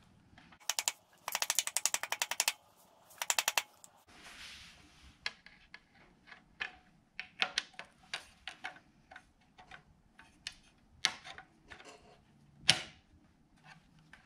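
Hand ratchet wrench clicking in quick runs as bolts are run in, three bursts in the first few seconds. Then scattered metal clinks and taps of tools and parts, with one sharp knock near the end.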